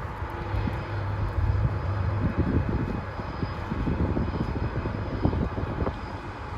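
Steady low engine drone with a constant hum, mixed with irregular low rumbling from wind on the microphone.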